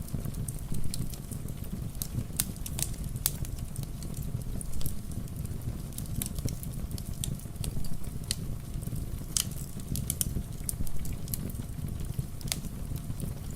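Fireplace fire crackling, with irregular sharp pops and snaps several times a second, over a steady low rumble of rain.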